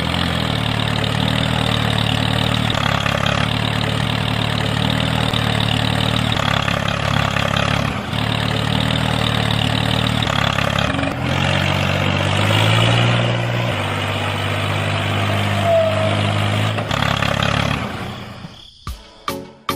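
Small engine idling, with its pitch shifting in small steps every second or two, then dying away near the end.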